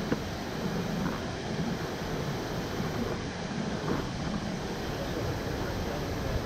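Steady roar of Nachi Falls, a tall single-drop waterfall, an even rushing noise without pitch. A brief knock is heard near the start.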